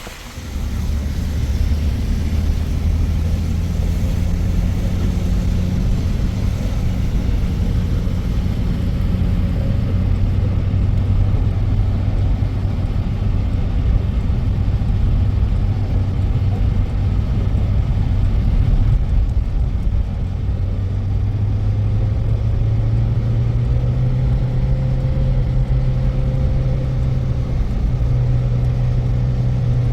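A motor vehicle's engine running steadily with a low hum; its note rises a little about two-thirds of the way through.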